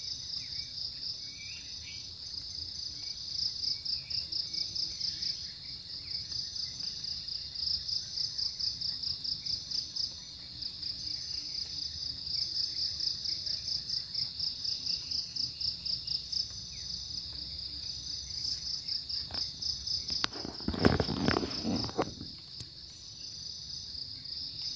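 Insects shrilling in a dense, pulsing chorus, about four pulses a second, with a steadier thin hiss above it. About twenty seconds in, a short burst of rustling and crackling, the loudest sound, stands out.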